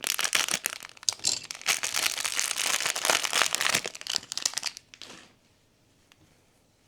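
Blind-box packaging being crinkled and handled by hand, with dense crackles, stopping about five seconds in, followed by a few faint ticks.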